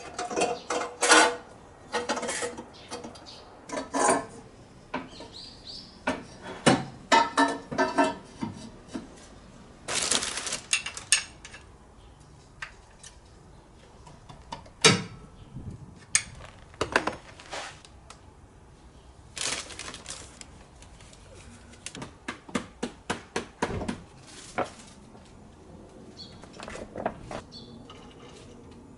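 Metal hand tools and car parts clinking and clanking in irregular bursts during exhaust-manifold work, with a couple of longer rasping stretches of about a second each.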